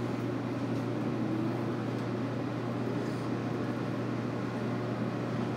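Running noise heard inside the cabin of a JR Kyushu 811 series electric train travelling between stations: a steady rumble with a constant low hum underneath.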